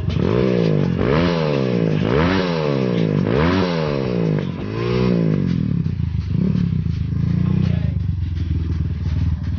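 Motorcycle engine revved through an Andy Speed aftermarket exhaust: about five quick throttle blips, each rising and falling, roughly one a second. It then settles back to a steady idle.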